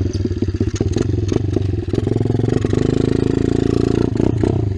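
Kawasaki KLX dirt bike's single-cylinder four-stroke engine running steadily under way, with a few sharp rattles over it.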